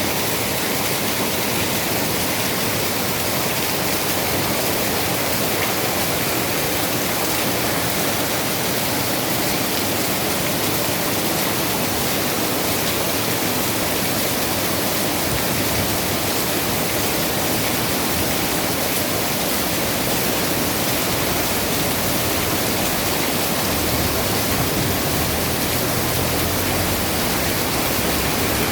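Heavy rain pouring down in a steady, dense hiss. A low rumble joins in near the end.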